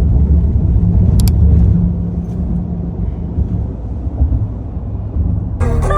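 Steady low rumble of a moving vehicle: road noise. Music starts suddenly near the end.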